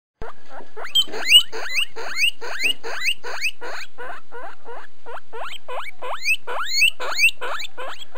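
Rodent squeaking: a quick, even series of short squeaks, each rising steeply in pitch, about two and a half a second.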